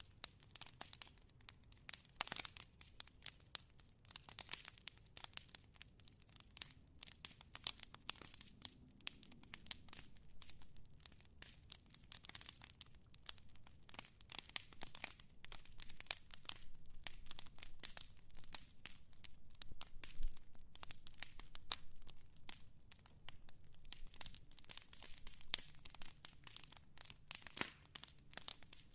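Wood fire crackling: dense, irregular pops and snaps over a faint low rumble of burning.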